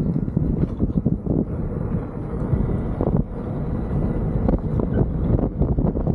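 Wind buffeting the camera microphone on a moving electric unicycle: loud, gusty, uneven rumbling noise, strongest at the low end.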